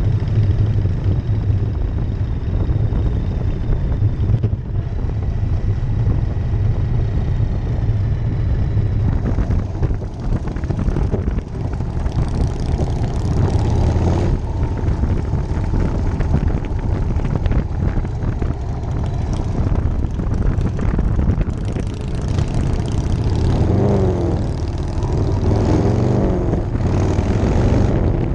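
Harley-Davidson Night Train's V-twin engine running steadily under way, with wind rushing past. The engine note wavers in pitch near the end.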